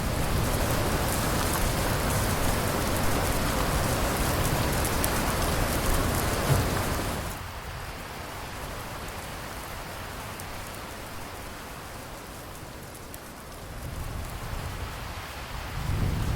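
Heavy rain falling with a low rumble underneath. About halfway through it drops suddenly to softer rain, and near the end a low rumble of thunder builds.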